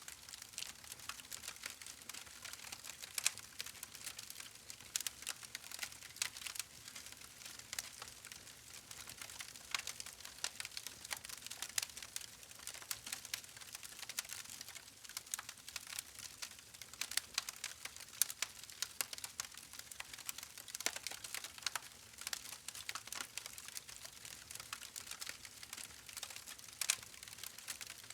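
Wood fire crackling and popping: a dense, irregular stream of sharp little snaps over a faint hiss.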